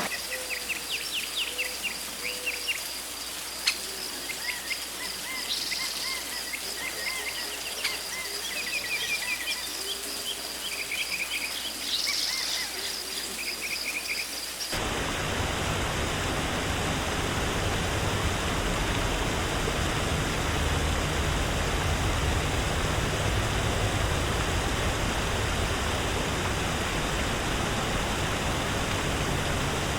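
Forest ambience: an insect's steady, pulsing high trill with scattered bird chirps, then about halfway through an abrupt switch to a steady rush of water.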